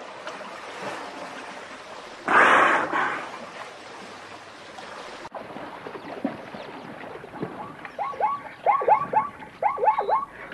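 Steady rush of water and wind noise with a brief, loud gush of air and spray about two seconds in. About eight seconds in, short animal calls start to repeat in quick groups of three or four.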